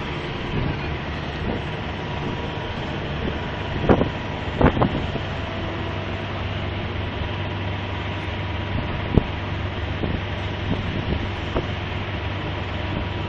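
Heavy engines running steadily at a drilling rig being rigged down, with sharp metallic knocks about four seconds in, just under five seconds in and again past nine seconds.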